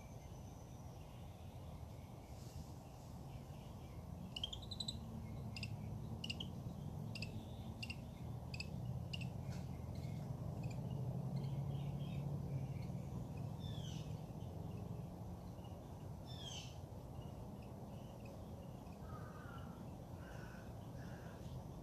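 Wild birds calling at dawn: a few rising chirps and a quick run of short high notes, with three lower calls near the end. A steady low rumble runs underneath and swells in the middle.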